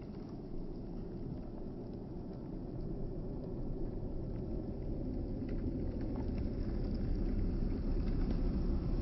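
Wind buffeting the microphone, a low rumble that grows louder over the last few seconds.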